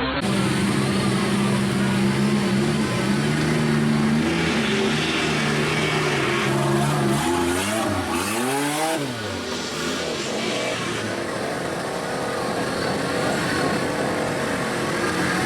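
Big mud truck engine running hard, a steady pitched drone that swings up and down in pitch about halfway through as the revs change, then settles again.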